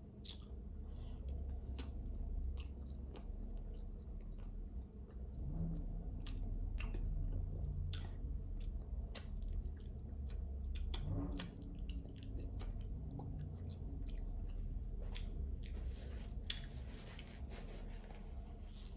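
Close-miked chewing and biting of seafood-boil food, with frequent sharp clicks and wet, squishy mouth sounds.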